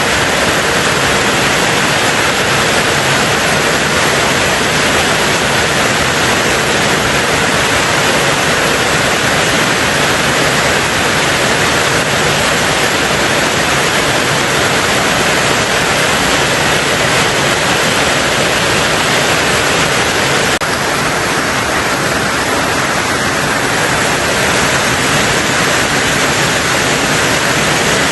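Heavy rain drumming steadily on a tin roof, a dense, even hiss with no individual drops standing out.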